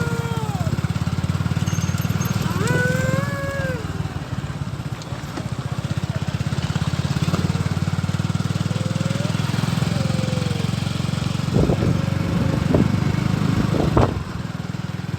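An engine running steadily with a fast even pulse. A few times people call out in drawn-out voices, and near the end there are a few knocks.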